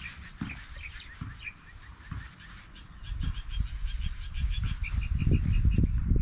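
A bird calling in a rapid series of short, repeated chirps, about five a second, over a low rumble that grows louder about three seconds in.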